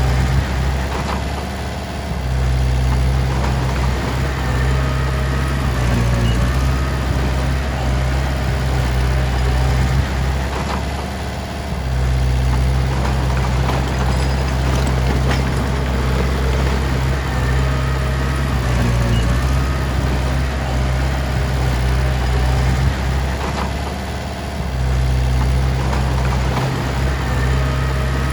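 Heavy diesel engine running steadily, its note dropping briefly about every ten seconds, with a few short metallic clanks.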